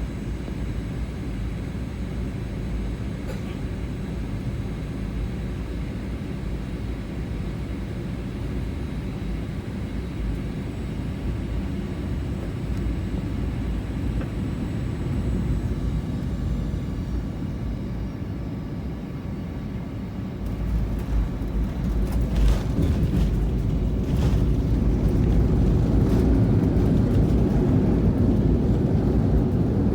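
Cabin noise inside a Boeing 777-200 airliner during landing: a steady rumble of engines and rushing air. About two-thirds of the way through it grows louder, with a few sharp knocks, then a heavier rumble, typical of touchdown and the roll-out on the runway.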